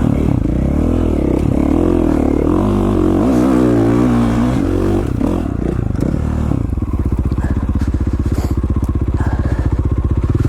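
KTM 450 XC-F four-stroke single-cylinder dirt bike engine being ridden, its pitch rising and falling with the throttle for about the first five seconds, then settling into a steady, even beat.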